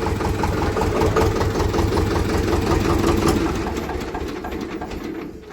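Tractor engine idling with an even pulsing beat, dying away about five seconds in.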